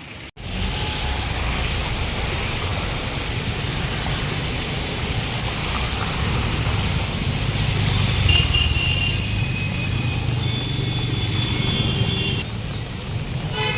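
Steady hiss of heavy rain mixed with the low rumble of road traffic, starting after a short break a third of a second in. Two thin, high steady tones sound briefly in the second half.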